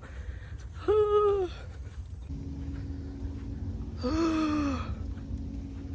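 A frightened woman's wordless vocal sounds, two short whimpering cries about a second in and about four seconds in, over a low rumble. A faint steady hum comes in a little over two seconds in.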